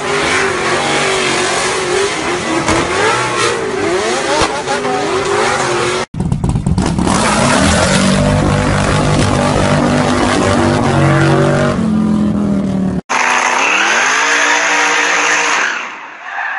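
Drift cars sliding, with engines revving and tyres squealing in a wavering pitch. After a sudden cut about six seconds in, a cruiser motorcycle's engine is held at high revs through a burnout, its note climbing near the end of the clip. After another cut near thirteen seconds, a car engine revs up and holds, then dies away near the end.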